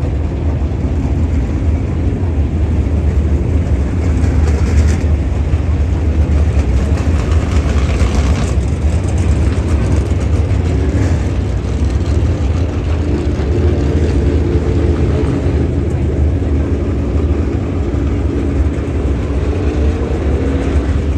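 Dirt late model race car engines running, a loud steady rumble with a faint engine note that rises in pitch through the second half.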